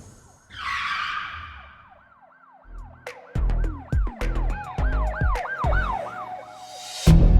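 Electronic intro music: a whoosh, then a run of quick rising-and-falling siren-like synth glides over heavy bass thumps, giving way to a drum beat near the end.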